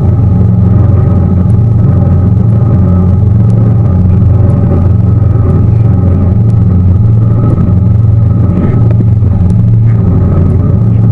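Tour boat's motor running steadily at cruising speed, a loud, even low drone with water and wind noise.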